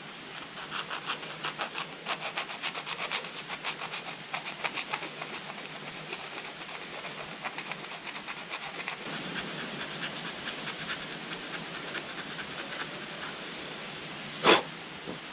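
Round file rasping back and forth in quick, even strokes, about three or four a second, cleaning up where a locating pin's nib was cut off inside a motorcycle handlebar control block. The strokes become rougher and less regular, and a single sharp knock comes near the end.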